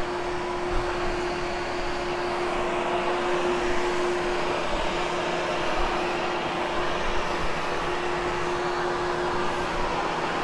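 Hoover HushTone upright vacuum cleaner running steadily as it is pushed over short shag carpet: a rush of air with a steady motor hum through it. The brush is set to its highest pile-height setting.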